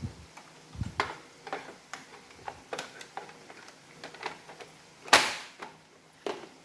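Irregular clicks and taps of Roomba robot vacuum plastic parts being handled and fitted together during reassembly, about a dozen short sounds with one louder, slightly longer clack about five seconds in.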